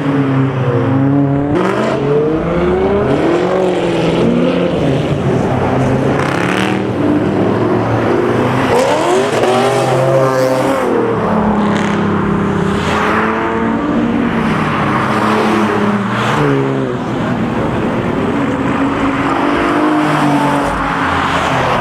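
High-performance car engines revving and accelerating away, one after another, the engine note climbing and dropping again and again.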